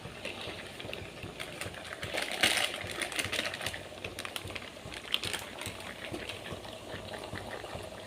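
Chicken frying in oil in a pan, crackling, with a spoon clicking and scraping against the pan as the masala is stirred in; the busiest stretch is about two to three and a half seconds in.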